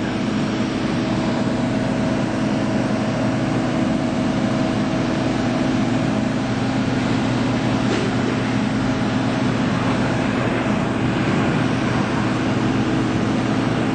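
Steady machine drone with several constant hum tones, running evenly without change; a faint click about eight seconds in.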